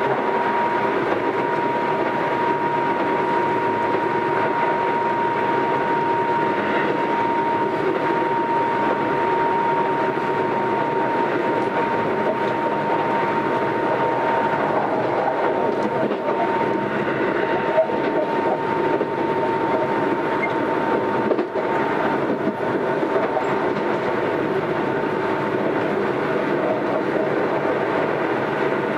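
Running sound inside a Keisei AE100-series electric limited-express car: the steady rumble of the train on the rails, with a steady whine that fades out about twenty seconds in. The air-conditioning fan runs weakly throughout.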